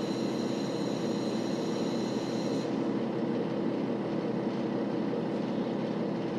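Cabin sound of a KiHa 40 series diesel railcar under way: a steady diesel engine hum and running noise. A faint high whine cuts off about two and a half seconds in.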